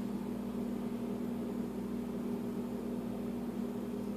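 A steady low hum with no other event, the sound of a running household appliance or fan.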